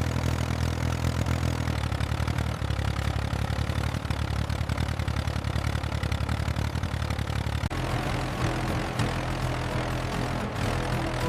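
Tractor engine running steadily with an even low chug; its tone shifts slightly about eight seconds in.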